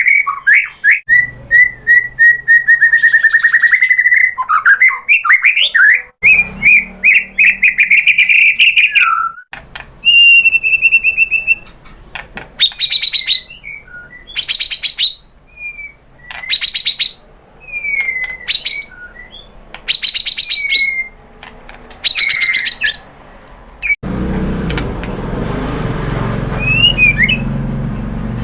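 White-rumped shama (murai batu) singing a loud, varied song of fast trills, rapid repeated chips and sliding whistles. About 24 seconds in, the recording cuts to a steady background hiss with only a few faint chirps.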